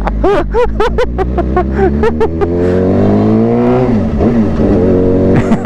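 Suzuki GSX-R600's inline-four engine through a new exhaust, accelerating hard. Its pitch climbs for about three seconds, drops sharply at a gear change about four seconds in, then climbs again.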